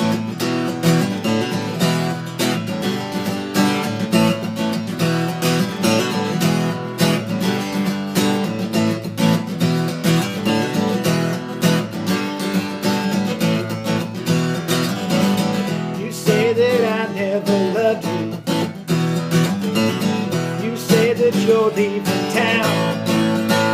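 Acoustic guitar strumming chords in a country song, an instrumental stretch between sung verses.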